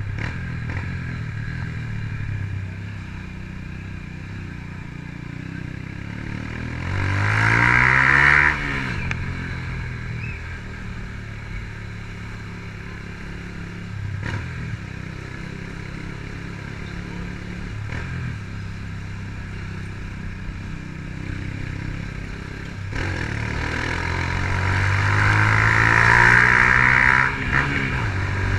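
Honda CG Titan 150's single-cylinder four-stroke engine running under way through a Fortuna aftermarket exhaust. It accelerates twice, about seven seconds in and again from about twenty-three seconds, rising in pitch each time until the throttle is shut off suddenly.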